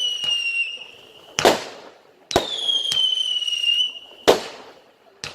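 Fireworks going off: whistling shots, each a shrill whistle sliding slightly down in pitch for about a second and a half, with loud bangs about a second and a half in and about four seconds in, and a smaller bang near the end.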